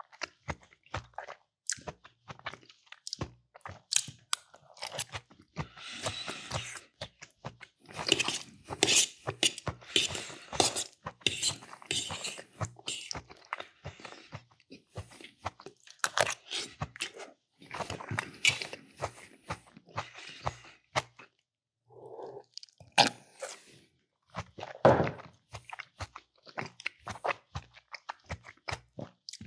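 A person eating close to the microphone: wet chewing with crunches and many short mouth clicks, plus a few sharper knocks from utensils or dishes.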